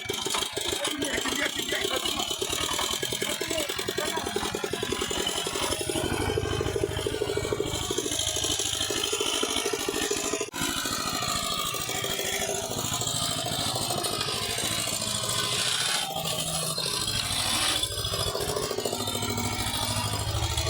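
Walking tractor engine running steadily, with rapid even firing pulses.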